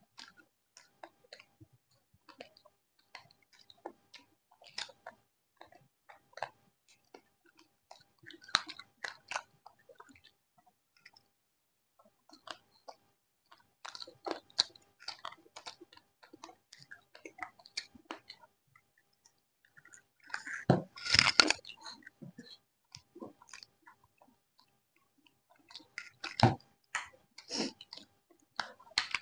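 People chewing crisp deep-fried chicken pakodi: irregular small crunches and mouth clicks, with louder bursts of crunching about fourteen, twenty-one and twenty-seven seconds in.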